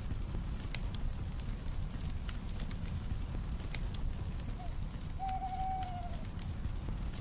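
Campfire crackling over a steady low rumble, with crickets trilling steadily. About four and a half seconds in, an owl gives a short hoot, then a longer one that falls slightly at its end.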